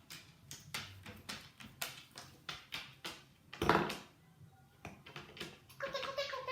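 Eclectus parrot chattering in a speech-like voice near the end, after a run of sharp clicks and taps and one louder harsh burst a little past the middle.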